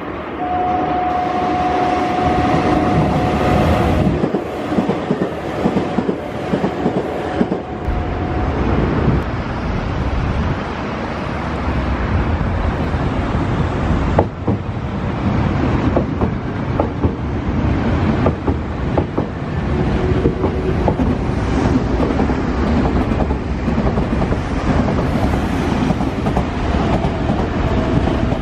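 Nankai Railway electric trains running through the station, wheels clattering over rail joints with a steady rumble. A steady high whine sounds through the first several seconds.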